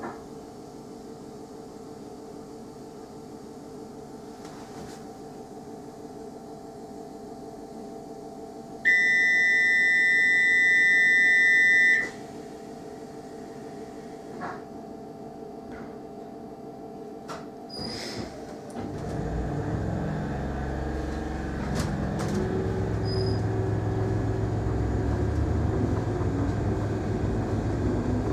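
Class 313 electric multiple unit, heard from inside the carriage: a steady hum while it stands at the platform, broken about a third of the way in by a loud steady buzzer tone lasting about three seconds, typical of the door-closing warning. A few clicks follow, then about two-thirds in the train pulls away and a louder rumble of motors and wheels builds up.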